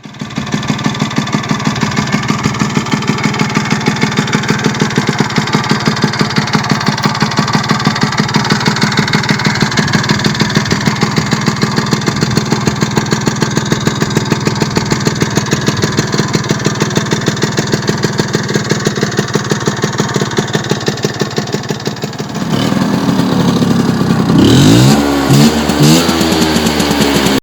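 1964 Vespa 50 N scooter's single-cylinder two-stroke engine, bored out with a 75 cc Polini kit and running through a PROMA exhaust, idling with a steady rapid pulse. About 22 seconds in it is revved, the pitch rising and falling, with several short sharp blips of the throttle near the end.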